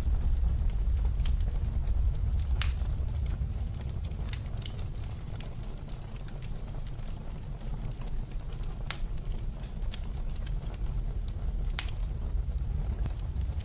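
Fireplace crackling, with scattered sharp pops every second or so, over a steady low rumble of blizzard wind.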